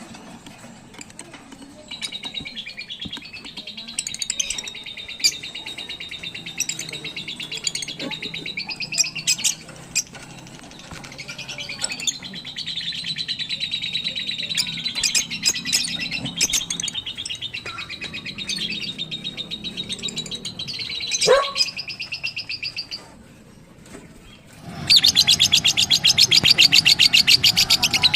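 African lovebirds chattering with a steady stream of high, rapid chirps. The chirping drops away briefly near the end, then comes back louder and faster.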